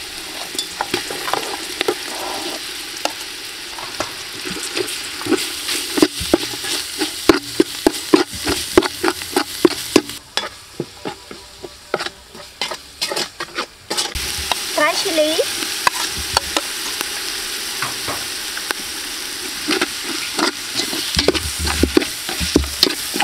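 Curry paste and fish paste sizzling as they fry in oil in a metal pot, while a metal spatula stirs and scrapes against the pot in quick clicks and scrapes. For a few seconds past the middle the sizzling drops away and only the scraping knocks are heard.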